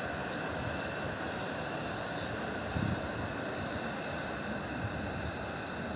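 Electric commuter train running along the track, heard from the front of the train: a steady rush of running noise with faint whining tones, and one low thump about three seconds in.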